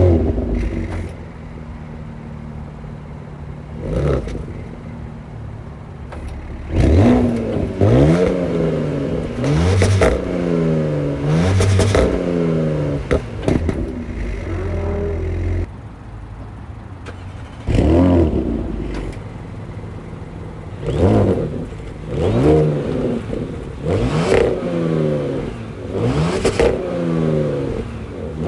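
2021 Audi S6's 2.9-litre turbocharged V6 exhaust, revved repeatedly. Each rev swells and its pitch slides back down, with steadier running between the revs.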